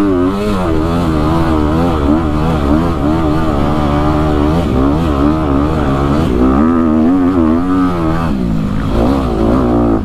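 Dirt bike engine running hard, its pitch rising and falling quickly as the throttle is worked over rough ground; the engine note changes and drops back about eight seconds in.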